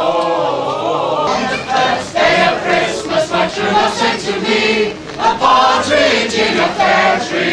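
A group of amateur voices singing a Christmas carol together. The sound changes abruptly about a second in, as a new sung line begins.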